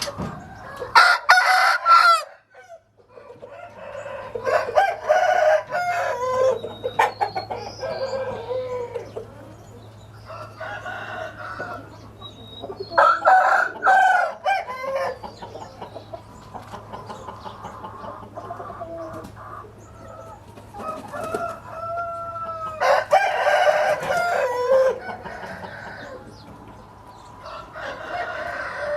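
Roosters crowing several times, loudest about a second in, halfway through and a few seconds before the end, with chickens clucking in between.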